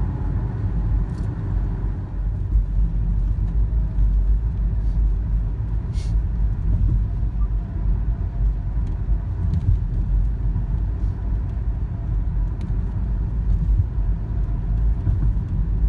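Steady road and engine rumble inside the cabin of a moving car, low and unbroken, with a few faint clicks.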